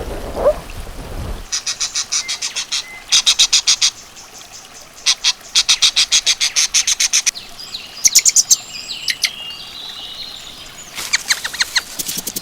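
A small bird singing in several runs of fast, high repeated chirps with short pauses between, and a few sliding whistled notes in the middle.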